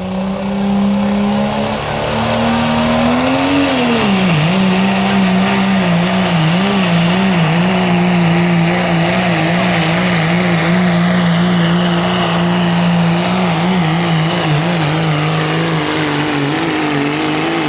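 Diesel 4WD pulling truck engine at full throttle, dragging the sled down the track. Revs climb over the first few seconds and dip sharply about four seconds in, then hold a steady, wavering high pitch before rising again near the end of the run.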